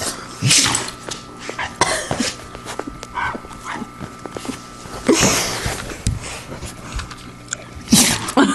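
A dog sneezing over and over: several sharp sneezes a few seconds apart, with fainter ones in between.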